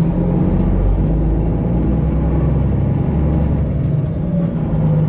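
Straight-piped Detroit Diesel 12.7-litre engine of a Freightliner Classic XL semi truck running at low speed with a steady low drone as the truck rolls slowly through a parking lot.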